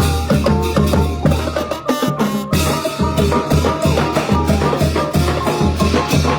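Thai brass band (trae wong) playing up-tempo procession music: horns over a steady bass drum and percussion beat of about three strokes a second. The drums break off briefly about two seconds in.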